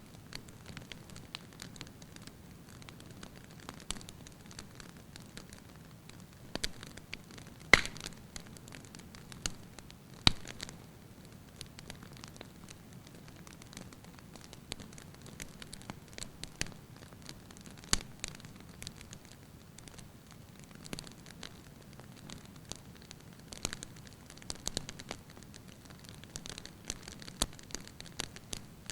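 Fire burning in a fireplace, crackling steadily over a low hiss, with irregular sharp pops; the loudest come about eight and ten seconds in.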